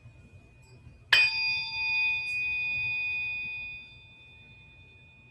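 A tuning fork for biofield tuning, struck once about a second in. It rings with several clear pitches for about three seconds, then fades, over a faint steady high tone.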